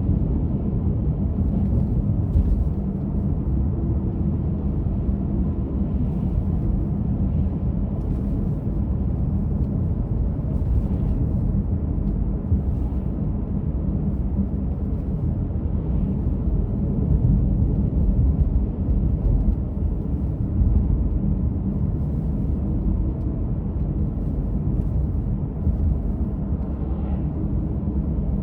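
A car driving along a winter road: a steady low rumble of engine and tyre noise, with a few faint light ticks.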